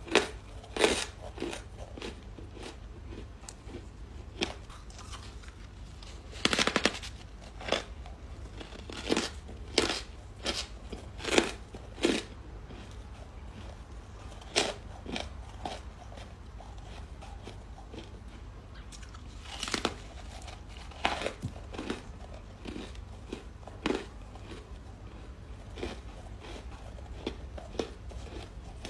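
Ice being bitten and chewed: irregular sharp crunches, several loud ones clustered in the first half and fewer, quieter ones toward the end, with pauses between bites.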